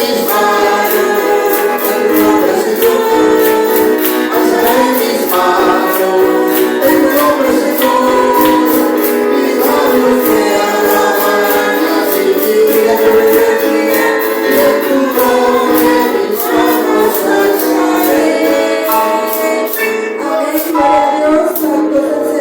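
Congregation singing a worship song with a tambourine keeping a steady beat of about three strokes a second; the tambourine drops out near the end while the singing goes on.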